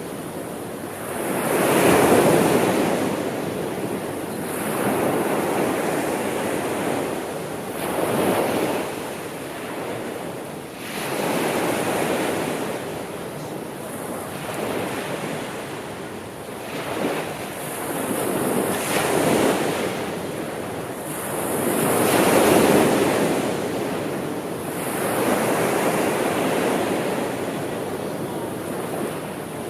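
Sea waves washing onto a shore, each wave swelling and falling back every few seconds, with wind noise on the microphone.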